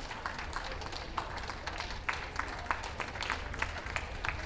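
Audience applause: scattered, irregular hand claps over a low steady rumble.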